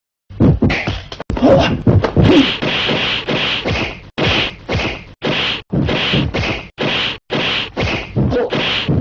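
A fast series of whacks and slaps from a scuffle, landing about two a second after an irregular start.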